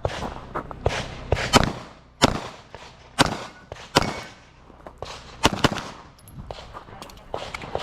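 Pistol shots, about a dozen, fired singly and in quick pairs at irregular spacing, each sharp crack followed by a short echo.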